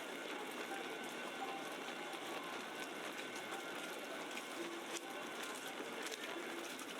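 Steady city ambience with a hiss-like wash of noise, faint indistinct voices in the distance and a few scattered clicks.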